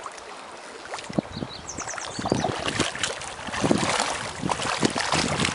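Water splashing and sloshing with irregular knocks and clicks as a hooked rainbow trout is brought into the landing net.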